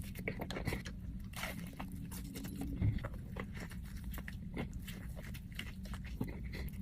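Close-up chewing of a Burger King spicy chicken sandwich: many quick mouth clicks and crunches over a steady low hum.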